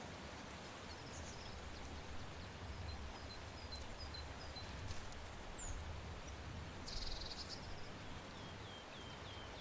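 Outdoor ambience: small birds chirping over a steady low rumble, with a run of short falling chirps near the end and a brief buzzy trill about seven seconds in.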